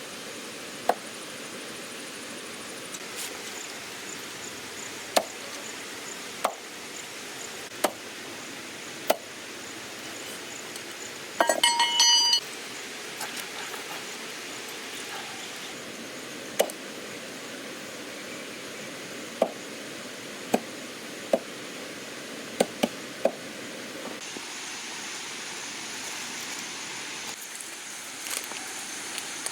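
Cooking utensils clinking and knocking: single sharp knocks every second or few, and a short burst of ringing metallic clatter about twelve seconds in. Under them run a steady hiss and a faint high buzz.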